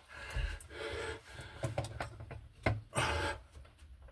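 Phillips screwdriver slipping and scraping in a stripped screw head without tightening it, two stretches of rasping with a few sharp clicks between them.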